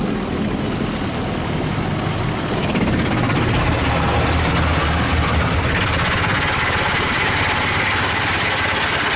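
Ryko Softgloss Maxx automatic car wash working over the car, heard from inside the cabin: a steady rush of water spray on the body over a low machine rumble. It grows louder about three seconds in and again near six seconds as the gantry comes closer.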